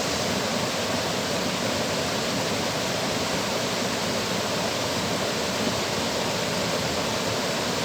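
Steady rush of water flowing at a dam.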